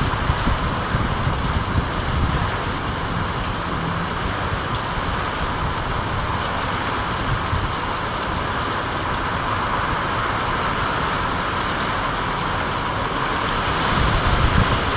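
Steady rain: a continuous even hiss with an uneven low rumble underneath, swelling slightly near the end.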